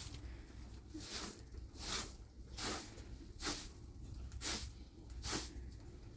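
Rhythmic swishing strokes, about seven of them at an even pace of a little more than one a second, over a low background rumble.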